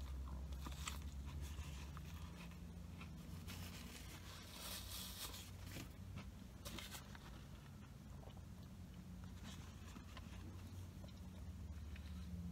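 A man biting into a crispy fried chicken sandwich and chewing it, with faint, scattered crunches.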